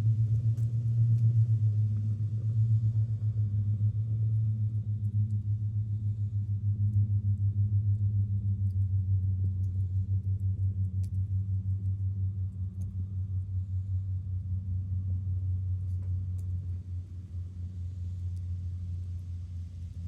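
A steady low, engine-like rumble that slowly fades away, with faint scattered ticks above it.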